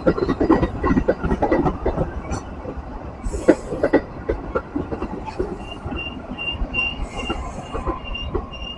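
Metra bilevel commuter train rolling past close by, its wheels clattering and knocking over the rail joints, the clatter easing toward the end. Two short hisses come about three and a half and seven seconds in, and from about halfway a high ringing tone repeats about three times a second.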